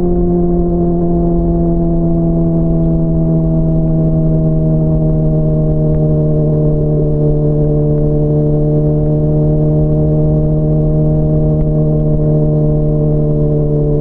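Honda CBR600RR's inline-four engine running at steady mid revs while riding, its pitch sinking slowly throughout as the bike gradually eases off, over a low rumble.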